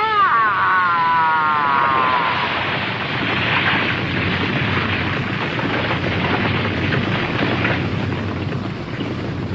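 Cartoon soundtrack sound effect: a pitched sweep falling over the first two seconds, over a steady rushing, rumbling roar that goes on throughout.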